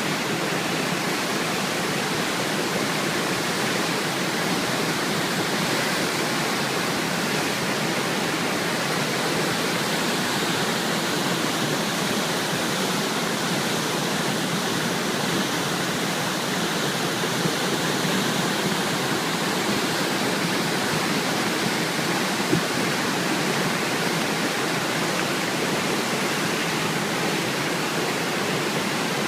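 A typhoon-swollen river in flood, its water rushing steadily, with one brief faint knock about twenty-two seconds in.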